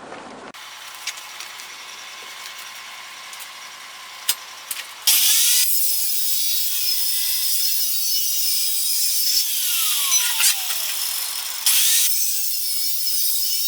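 A power saw on a homemade cutting stand cutting steel profile tube into equal lengths: a quieter noisy stretch with clicks, then about five seconds in a loud, high, hissing cut. Between about 9.5 and 11 seconds the motor's pitch falls as it spins down.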